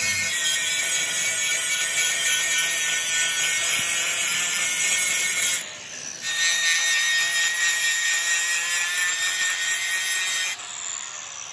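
A power tool working metal: a loud, harsh grinding noise with a steady high whine. It breaks off briefly about halfway through, then resumes and breaks off again near the end, where the pitch falls as the tool winds down.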